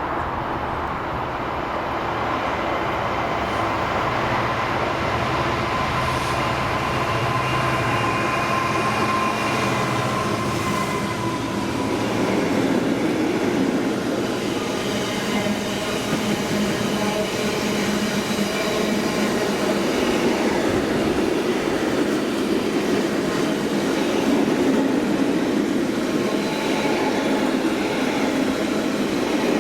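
A train passing close by at steady speed, with continuous wheel-on-rail rumble and thin, faint squealing tones from the wheels coming and going.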